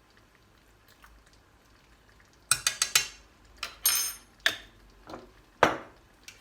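Metal spoon clinking and knocking against a cooking pot and spice container as spices are added and stirred in: a quick cluster of clinks, a short ringing clink, then a few single knocks.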